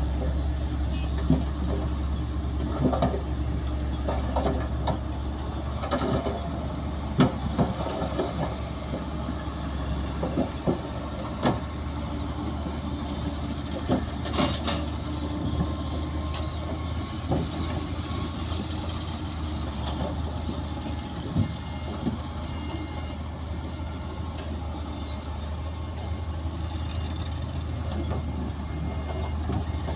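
Heavy diesel earthmoving machinery running steadily with a low drone, with scattered metallic clanks and knocks.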